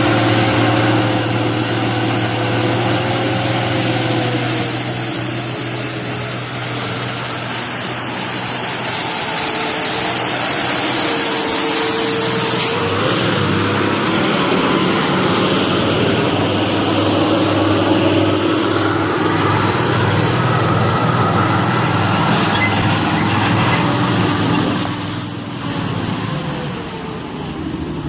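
Heavy vehicle engines running steadily, their pitch rising and falling a little with load. The sound changes abruptly about 13 seconds in.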